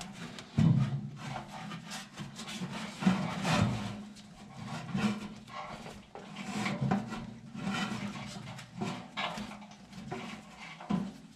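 Wrenches working a bolt on a blower motor mount: irregular metal scraping and rubbing strokes with light knocks, several a second, as the threads are worked.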